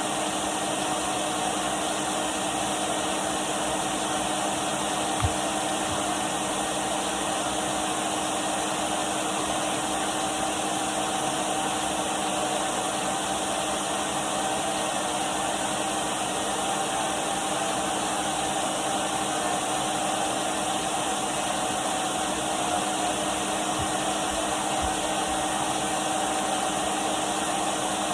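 Henry canister vacuum cleaner running steadily: an even rushing hiss of air over a constant motor hum, with one small knock about five seconds in.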